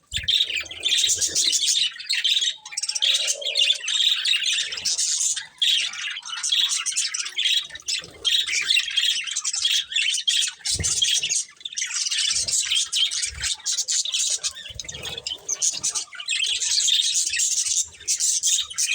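A pair of budgerigars chirping and warbling in rapid, almost unbroken chatter, with harsher squawks mixed in. A few short low thumps come near the start and twice later on.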